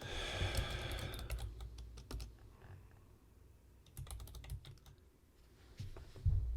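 Typing on a computer keyboard in irregular bursts of keystrokes, with a quick cluster of clicks about four seconds in.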